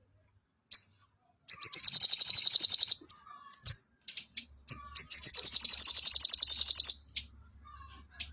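A sogon songbird singing: two fast, high rattling trills of rapidly repeated notes, about a dozen a second, the second one longer, with short single chirps in between.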